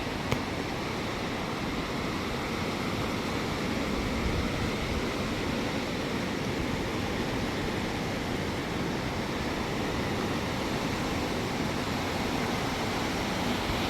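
Flooded river's fast-flowing water rushing steadily, with a single short click near the start.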